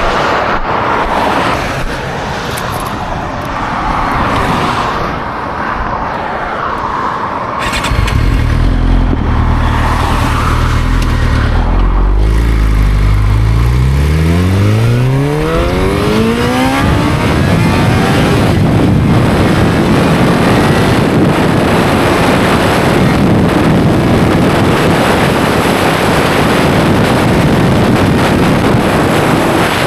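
Motorcycle engine comes in about eight seconds in, runs steadily, then climbs in pitch as the bike accelerates away. After that a steady rush of wind on the microphone covers the engine while riding at speed.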